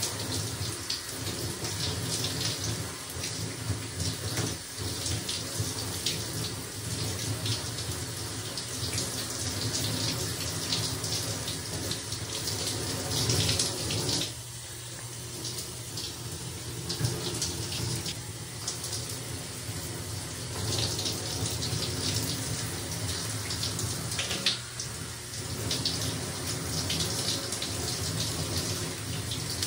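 Running water, a steady splashing stream whose level briefly dips a few times, most clearly about halfway through and again later on.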